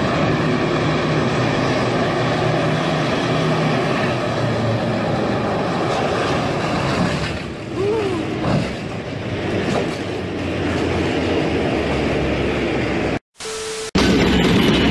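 Steady rushing vehicle and wind noise, as from a truck or car on the move, with a short drop-out about thirteen seconds in before a louder section starts.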